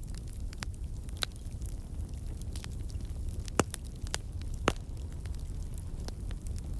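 Bonfire crackling: irregular snaps and pops over a steady low rumble of the flames, with two louder pops a little over halfway through.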